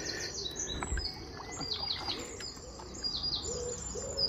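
Small songbirds singing in quick runs of short, high chirps, several overlapping. There is a soft low knock about a second in.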